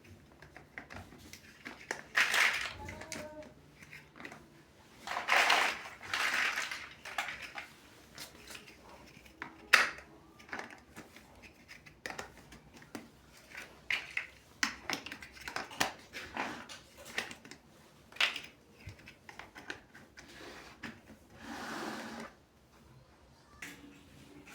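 Plastic building bricks being handled and pressed together: scattered sharp clicks and clatters, with a few longer rustling bursts.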